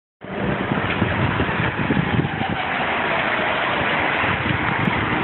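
A vehicle engine running under steady, loud city street noise. The sound cuts in suddenly just after the start.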